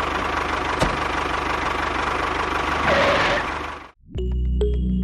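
Tractor engine idling steadily, with a sharp click about a second in and a brief louder swell near three seconds, cutting off suddenly about four seconds in. Music with plucked notes begins right after.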